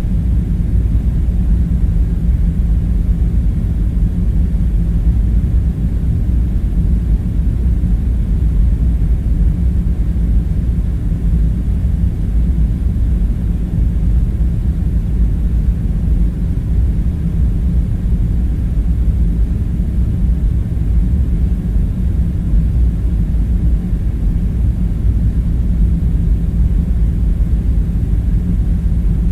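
A steady, deep rumbling drone with faint hiss above it, unchanging throughout, with no separate knocks or clicks standing out.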